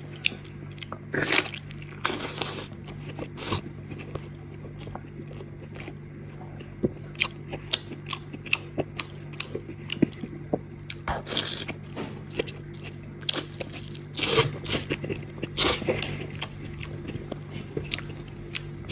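Close-miked eating of saucy stomach-wrapped meat (dubaorou): wet chewing and biting with many short mouth clicks and smacks, and the soft, wet tearing of the stomach casing by hand. A steady low hum runs underneath.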